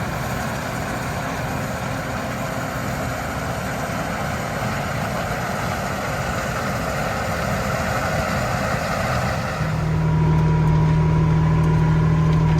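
Case IH 2388 combine running steadily while harvesting corn, a wide even machine noise. About ten seconds in the sound changes suddenly to a louder steady engine drone with a strong low hum and a thin higher tone.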